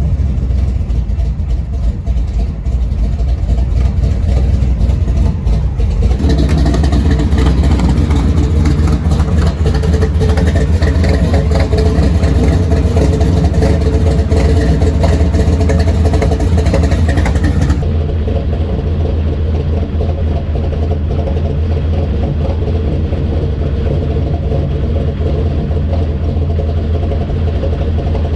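Supercharged 468 cubic inch big-block Chevy V8 with a big cam and a 6-71 blower, idling steadily and loud. The sound grows fuller and brighter about six seconds in and turns duller about two-thirds of the way through.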